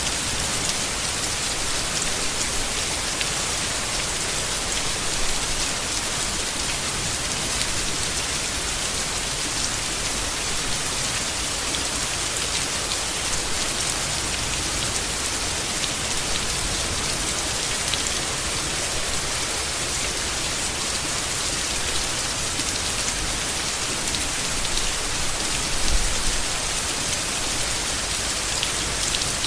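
Steady rain falling on leaves, a dense even hiss with many small drop ticks.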